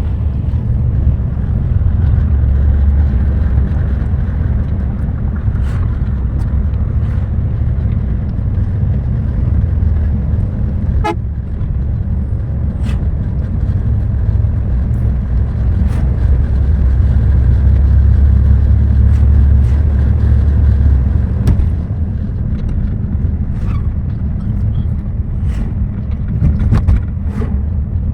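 Bus driving at highway speed: a steady, deep engine and road rumble, with scattered sharp clicks and rattles. It grows a little louder for a few seconds past the middle.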